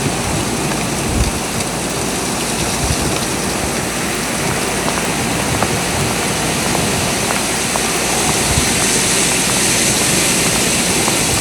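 Blizzard wind blowing steadily, a continuous rushing noise that swells a little near the end.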